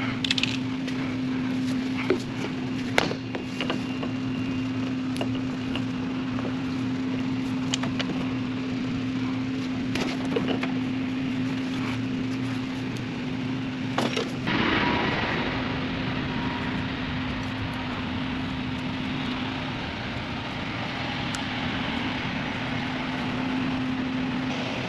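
Steady drone of a running engine, with scattered sharp clicks and knocks over it; about fourteen seconds in, a hissing rush joins and carries on.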